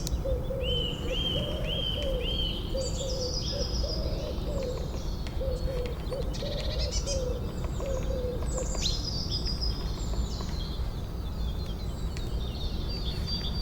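Forest ambience of several birds singing: high chirps, quick descending trills and a run of short arched whistles, over a steady low background rumble. For the first eight seconds or so a lower, soft call repeats at a steady pace beneath the song.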